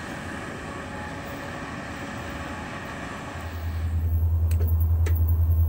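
Freight train running past at a distance, a steady rushing noise. After about three and a half seconds it gives way to a louder, steady low rumble.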